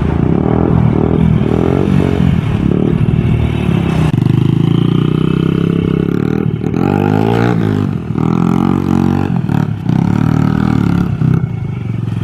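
A vehicle engine running and revving, its pitch rising and falling several times.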